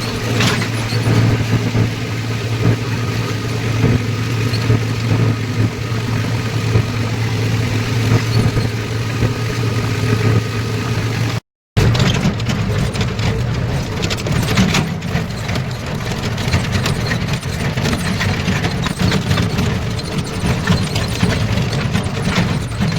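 Diesel tractor engine running steadily. The sound cuts out briefly about halfway through, and after that the engine comes back rougher and heavier.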